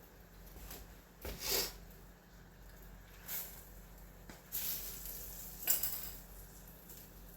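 A utensil scraping and clattering against a frying pan a few times in short strokes as fish fries in butter, over a low steady hum.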